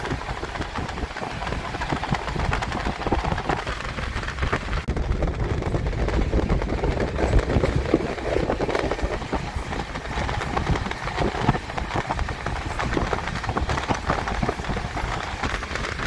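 Passenger train running along the track, heard from a coach window: a continuous rumble and rushing noise with irregular clattering knocks from the wheels and coaches.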